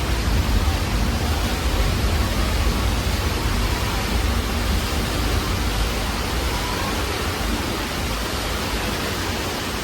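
Earthquake attraction effects: a loud, steady rush of flood water with a deep rumble underneath, easing off slightly near the end.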